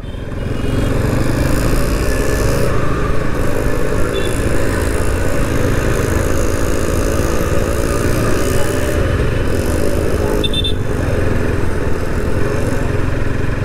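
Bajaj Pulsar NS200's single-cylinder engine running steadily at light throttle while riding slowly through traffic, heard from the rider's seat over road noise.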